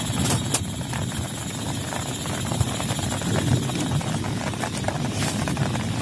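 Heavy rain drumming steadily, with single loud drops cracking sharply close by.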